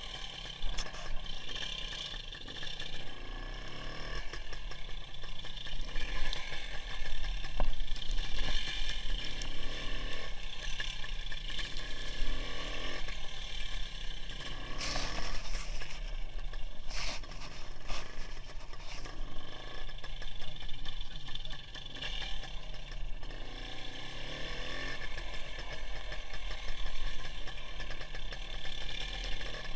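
WSK 175 motorcycle's two-stroke single-cylinder engine running while riding, heard through an onboard camera with heavy wind rumble on the microphone. There are a few sharp knocks or rattles about halfway through.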